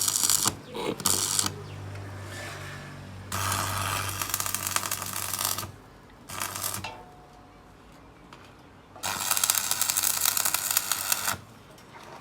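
Electric arc welding: several bursts of crackling hiss, the longest about two seconds, from the arc as a weld is laid, with the welder humming steadily through the first half.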